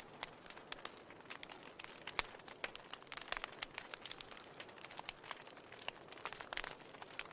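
Wood fire crackling in a fireplace: irregular pops and snaps over a soft hiss.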